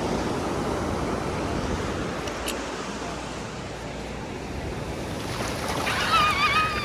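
Ocean surf washing steadily on the beach, with some wind on the microphone. Near the end a high, wavering whine cuts in for about a second and a half.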